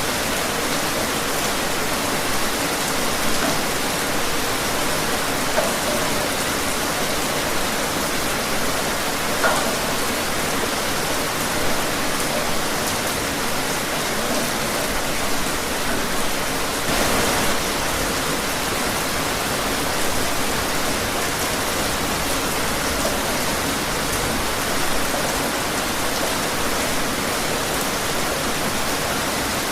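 Steady rain falling outdoors, an even hiss with occasional louder drops.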